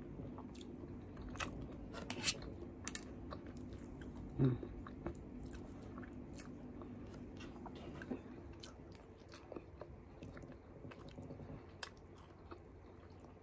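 Close-up eating sounds: soft chewing of rice and vegetables, with scattered small wet clicks and lip smacks.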